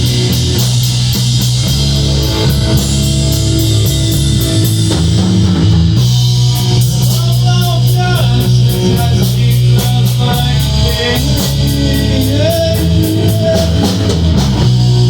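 Rock band playing: guitar, bass guitar and drum kit, with a steady hi-hat or cymbal beat of about four strokes a second. About six seconds in, after a short break in the cymbals, a melody with bending notes comes in over the band.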